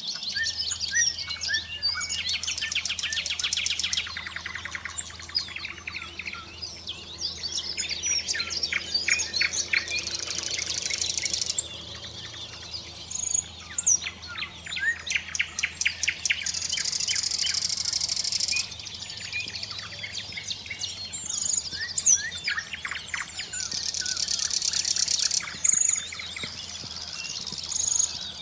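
Several thrush nightingales singing against one another. Dense whistles and chirps are broken by loud rattling trills of very rapid clicks, each lasting a second or two and coming back about every six to seven seconds.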